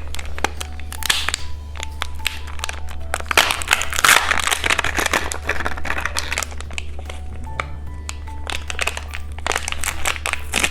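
Plastic wrapping of a toy candy surprise egg crinkling and crackling, with sharp plastic clicks as it is handled and opened. A soft background melody plays under it.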